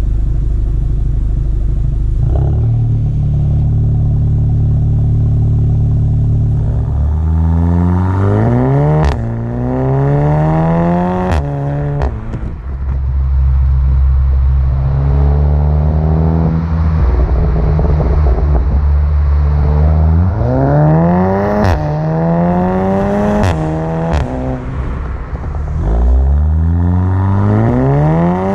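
2016 VW Golf R's turbocharged 2.0-litre four-cylinder through an APR valved cat-back exhaust, running steadily at first, then accelerating hard three times. The revs climb and drop back at each upshift, with sharp cracks from the exhaust at several of the shifts.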